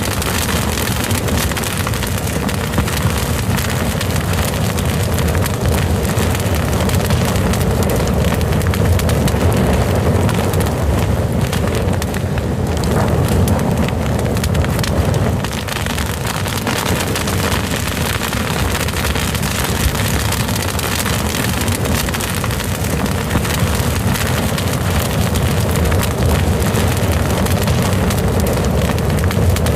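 Fire burning steadily with a low rumble and frequent small crackles and pops.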